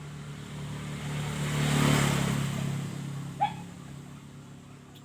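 A motor vehicle drives past, its engine and road noise swelling to a peak about two seconds in and then fading. A brief high squeak sounds about three and a half seconds in.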